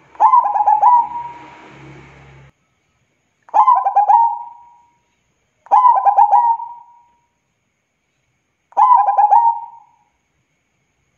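Zebra dove (perkutut) cooing: four short phrases of quick rolling notes, a few seconds apart.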